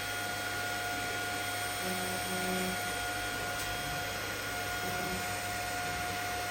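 TIG welding arc running steadily on the root pass of a pipe joint as it is tied in, giving an even hiss over a constant electrical hum.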